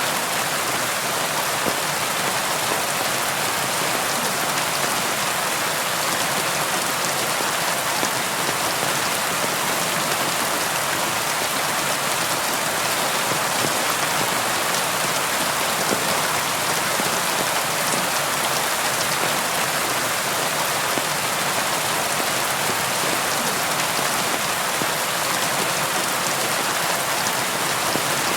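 Steady rain falling, an even hiss of many drops with faint scattered ticks from individual drops.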